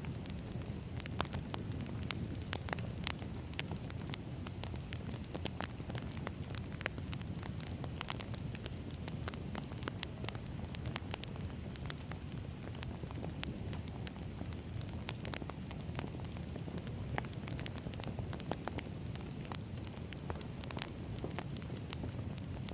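Wood fire burning: a steady low rumble of flames with frequent irregular sharp crackles and pops from the burning logs.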